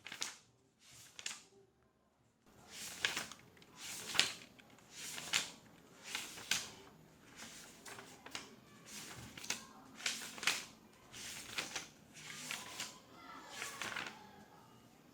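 Office ambience: after a brief lull, a run of soft rustling, handling sounds comes about once a second, possibly with faint voices in the background. No keyboard typing is heard.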